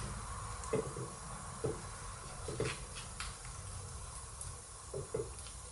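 Half a dozen light knocks and clinks of gearbox parts and tools being handled, over a steady hiss.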